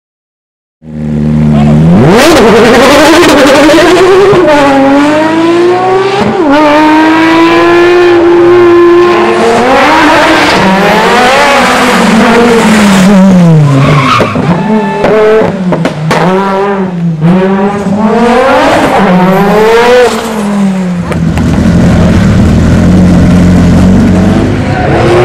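Historic rally car engine running hard, starting about a second in, its pitch repeatedly climbing and dropping as the driver accelerates, changes gear and lifts off the throttle. Near the end the engine note settles lower and steadier.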